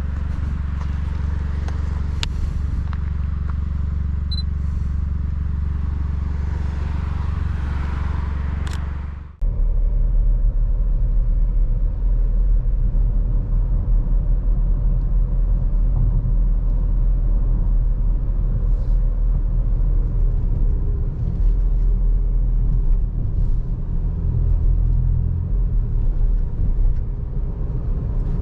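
Seat Ibiza FR's 1.0 TSI three-cylinder engine running through a Friedrich sport exhaust, a steady low rumble. About nine seconds in the sound drops out for a moment and comes back louder and deeper.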